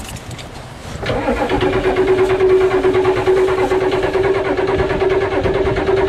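Ford diesel pickup's starter cranking the engine steadily without it catching, starting about a second in. The truck has stalled and will not restart, which the owners put down to water in the fuel.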